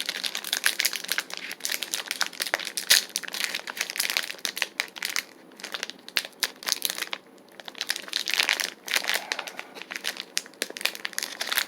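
Plastic snack-stick bag crinkling and crackling in irregular bursts as it is twisted and pulled to get it open, with a couple of brief pauses; the bag's seal is stuck, so it has to be forced.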